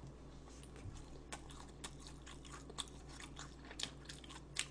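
Chewing food: a run of faint, irregular clicks and crunches from the mouth as the food is eaten.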